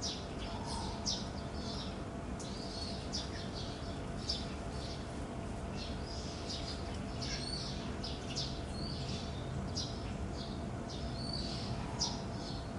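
Small birds chirping: many short, high chirps, two or three a second, over a steady low background hum.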